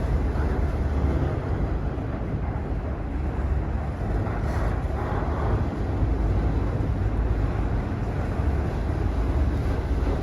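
Freight train rolling past, a steady low rumble with no horn or bell.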